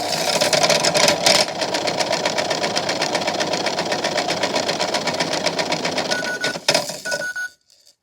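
Toy washing machine's small motor running, spinning its drum with magnets tumbling inside in a fast, steady rattle that cuts off near the end.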